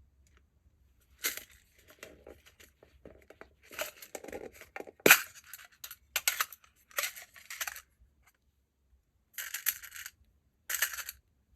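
Crackling, crinkling handling noises from slime-mixing work, in short irregular bursts with a sharp snap about five seconds in.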